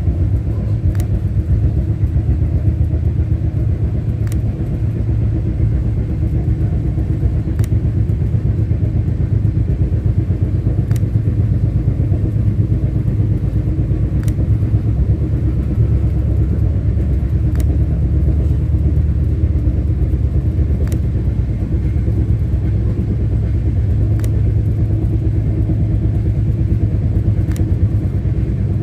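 Passenger train running on the rails: a steady low rumble with faint, evenly spaced clicks about every three seconds.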